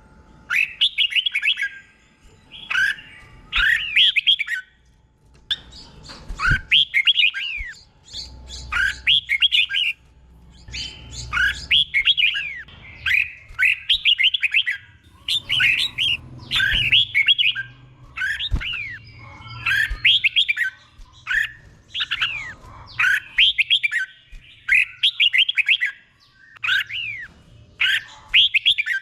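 Red-whiskered bulbul singing its doubled song: short, bright phrases of quick swooping whistled notes, one after another every second or two.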